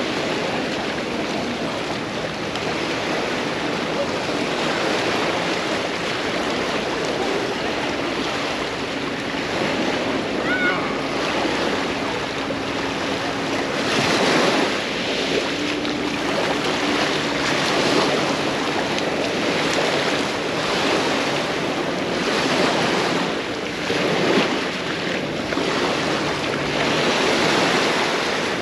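Small waves breaking and washing up on a sandy beach, a steady surf that swells and falls every couple of seconds.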